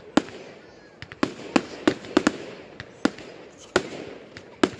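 Fireworks going off: an irregular series of sharp bangs and cracks, about a dozen in under five seconds, some louder and some fainter.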